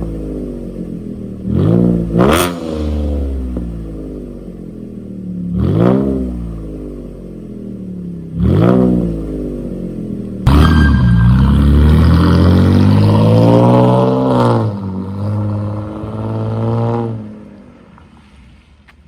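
Cadillac CTS 3.0's V6 engine heard through a custom valved (variable) exhaust, blipped sharply four times, then held at higher revs for about four seconds with the pitch climbing before it drops back. Near the end the engine sound fades away.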